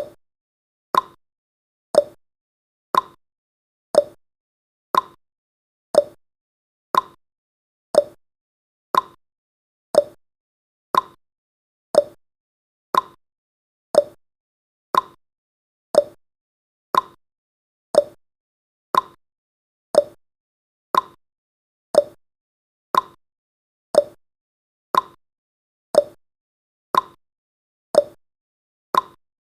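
Countdown timer's ticking sound effect: one short tick every second, evenly spaced and unchanging.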